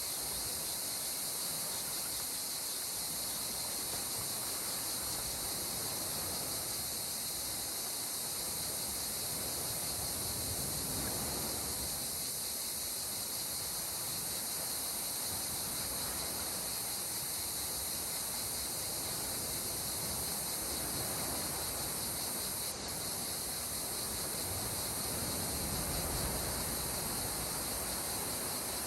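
Calm sea water washing gently, swelling softly twice over a steady high-pitched hiss.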